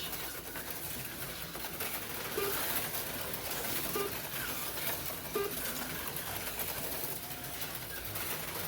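HO-scale slot cars running laps on the track, a steady high hiss of small motors and pickups, with a short pitched blip recurring about every second and a half.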